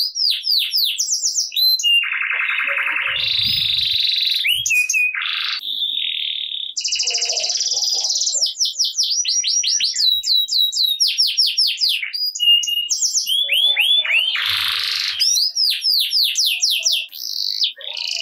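Domestic canary singing continuously in a vigorous 'gacor ngerek' song: fast runs of repeated down-slurred whistled notes alternating with rapid buzzy trills and rolls, switching phrase every second or two.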